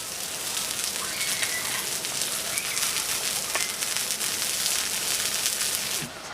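Heavy rain falling in a dense, steady hiss that cuts off abruptly about six seconds in. A couple of faint high chirps sound over it early on.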